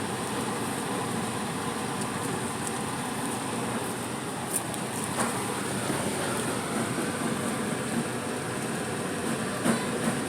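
Steady sizzling and bubbling hiss of a broad pot of meatball sauce and spaghetti cooking on the stove, with a few light clicks.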